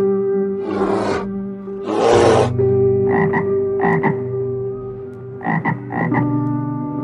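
A brown bear growling in two rough bursts over the first couple of seconds, then a frog calling in short double croaks, four of them. A steady background drone runs underneath.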